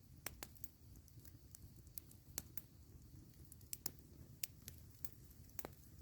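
Campfire crackling: irregular sharp snaps and pops, about a dozen, over a faint low steady background noise.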